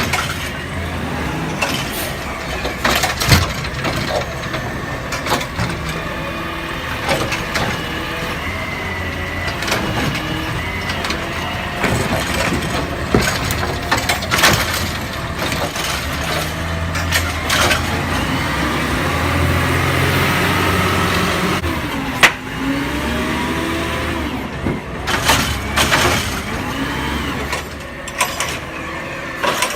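Garbage truck at work: its diesel engine running, revving up for a few seconds past the middle, with repeated clanks and knocks and one sharp bang.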